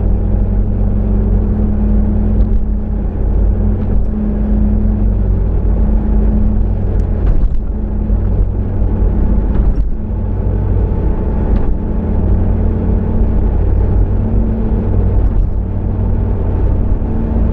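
Car being driven, a steady low rumble of engine and road noise with a constant hum and a few faint scattered clicks.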